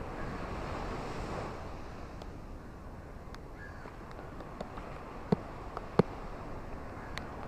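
Steady wash of surf and wind with scattered sharp ticks of raindrops, two much louder ones just past the middle.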